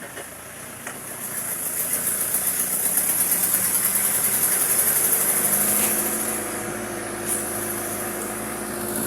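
A motor vehicle's engine running, growing louder over the first few seconds and then holding steady, with a low, even hum.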